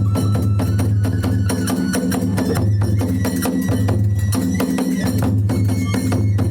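Hiroshima-style kagura hayashi playing a fast, driving rhythm: a large drum beating under rapid, bright clashes of small hand cymbals, with thin sustained flute notes above.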